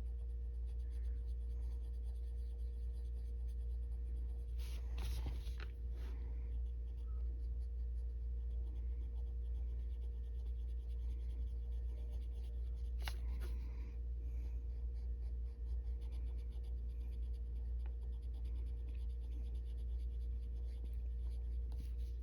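Colored pencil scratching across the paper of a colouring book, shading with repeated small strokes. A steady low hum runs underneath.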